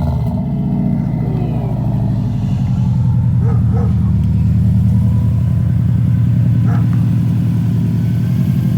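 Subaru WRX's turbocharged flat-four engine idling steadily through a newly fitted aftermarket exhaust, loud and evenly pulsing.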